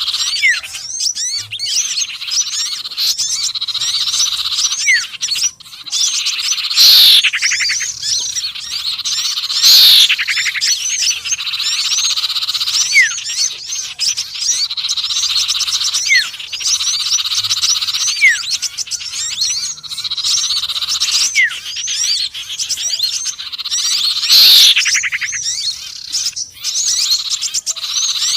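Mixed bird-lure recording of small songbirds (sirtu, konin and sepah raja) with continuous fast, high chattering trills and short falling whistles. Three times, a loud call sweeps down from very high pitch, and the pattern repeats as a loop.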